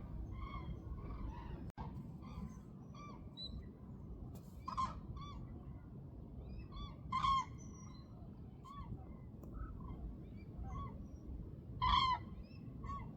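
A flock of waterbirds calling: many short, repeated calls overlapping one another, with a few louder calls about five, seven and twelve seconds in, over a low steady rumble.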